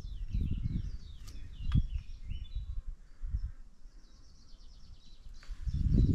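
Songbirds singing: runs of short falling chirps in the first couple of seconds, then a fast high trill near the end, over irregular low thumps.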